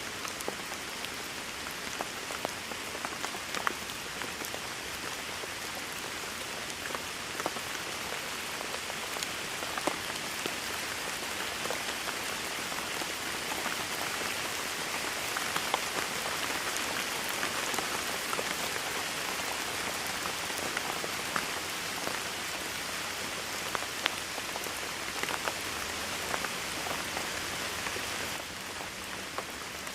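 Steady heavy rain falling, with many individual drops ticking sharply on a surface close by. It eases slightly near the end.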